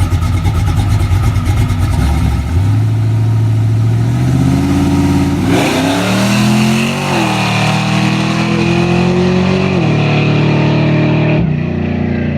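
Car engine accelerating hard, its pitch climbing in steps. About halfway a louder rush joins in and the pitch holds high, then it drops away about ten seconds in.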